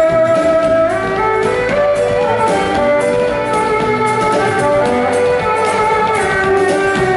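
Live band music: an instrumental passage with held melody notes, some sliding in pitch, over a steady beat.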